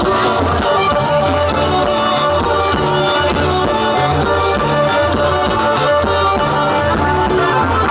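Accordion-led band music: sustained accordion chords and melody over a steady bass beat and percussion, with no clear singing.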